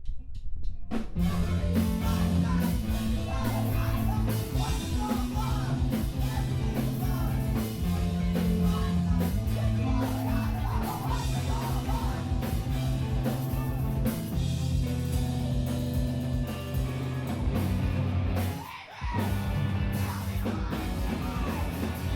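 Live screamo band playing loud: distorted guitars, bass and a pounding drum kit with yelled vocals. It opens with a few quick clicks, the full band crashes in about a second in, and the band cuts out briefly near the end before coming back in.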